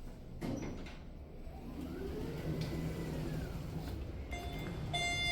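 Elevator car door sliding on its track, its door operator giving a whine that rises and falls, followed near the end by an elevator chime that dings twice, the second louder.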